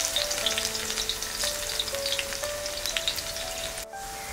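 Food frying in hot oil: a steady sizzle full of small crackles, cutting off abruptly near the end, with background music playing over it.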